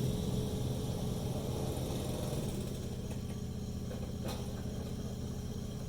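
A steady low mechanical hum, like a motor running at idle, with one light click about four seconds in.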